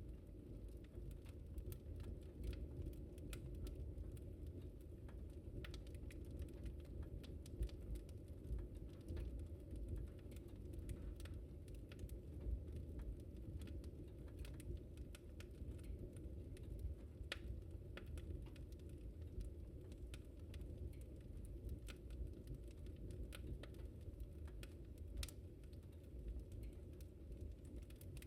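Wood fire crackling in a fireplace: irregular sharp snaps and pops scattered over a steady low rumble of burning.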